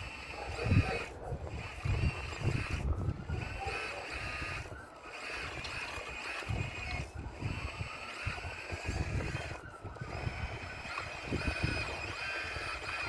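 Radio-controlled Caterpillar model excavator's drive whining steadily, cutting out briefly several times and gliding up and down in pitch as it works, over irregular knocks and thuds of stones as it breaks down an old stone wall; the loudest thud comes about a second in.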